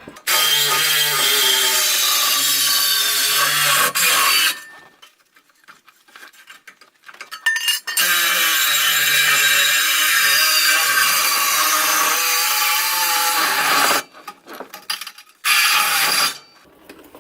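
Reciprocating saw (Sawzall) cutting through the old exhaust pipe, its motor pitch wavering as the blade bites. It runs in three goes: about four seconds, a pause, about six seconds, then a short burst near the end.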